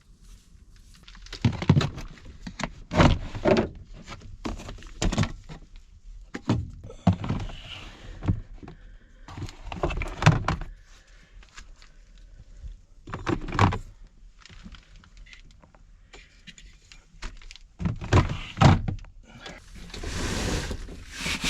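Camping gear being rummaged through and set down: a string of separate knocks and thunks, with a longer rustling stretch near the end.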